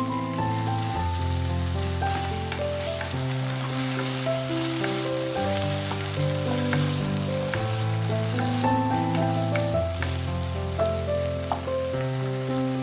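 Chicken and vegetables sizzling in a hot nonstick pan with white vinegar as they are stir-fried, with short scrapes and taps of a wooden spatula. Soft background music with held notes plays underneath.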